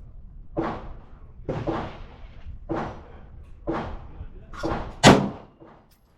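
A string of pistol shots at an outdoor range, about one a second, six or so in all. The loudest and sharpest comes about five seconds in.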